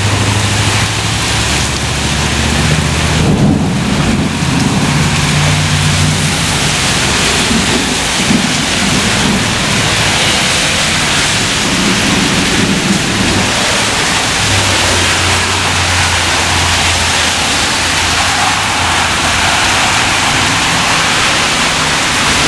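Heavy rain pouring down in a thunderstorm, a loud, steady hiss with a low rumble underneath.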